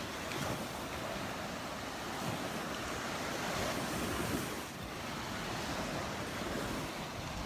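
Gulf surf breaking and washing up the beach, with wind buffeting the microphone; the wash swells and eases slowly, with a brief lull about two thirds of the way in.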